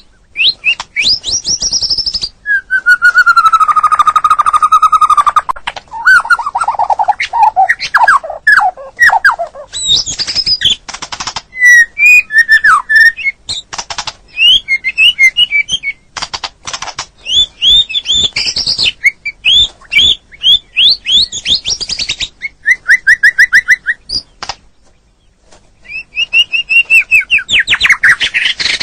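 White-rumped shama singing a long, varied song: a long held whistle, rapid trills, strings of quick falling notes and rattling clicks, with one short pause near the end.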